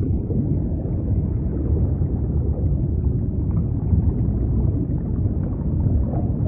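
Steady low rumble with faint gurgling, the sound of underwater deep-sea footage around a giant jellyfish.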